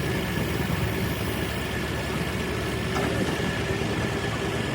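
An engine running steadily at idle, with a low, even rumble and a faint steady whine.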